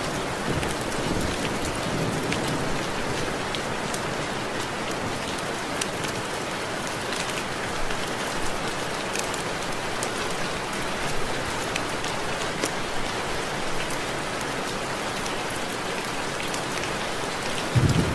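Steady rain, with many separate drops ticking against window glass. A low rumble of thunder dies away about a second in, and another starts to roll just before the end.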